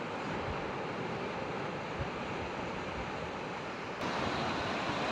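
Steady rushing of surf and wind on the microphone. About four seconds in, the sound changes abruptly and becomes a little louder and brighter.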